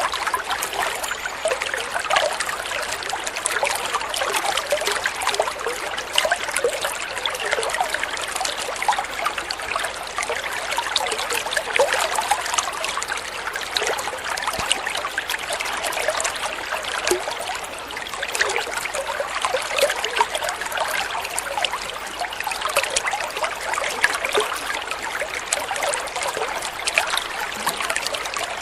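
Water flowing steadily, a continuous trickling and babbling of many small splashes with no pauses.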